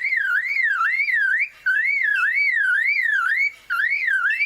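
Superb lyrebird mimicking a car alarm: a loud, warbling whistle that sweeps up and down about two and a half times a second, broken by two short pauses.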